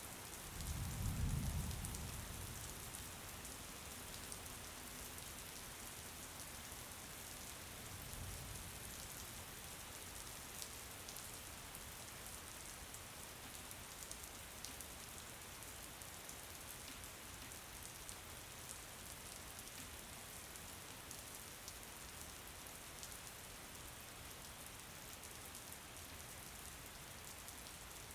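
Steady rain falling, an even hiss with scattered sharp drop ticks. A low rumble swells about a second in, with a fainter one around eight seconds.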